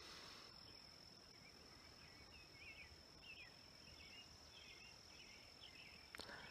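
Near silence: faint outdoor ambience with a steady high insect trill and soft bird chirps from about two seconds in.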